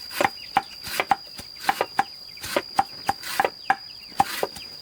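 Knife chopping on a board: sharp knocks at an uneven pace of about two to three a second.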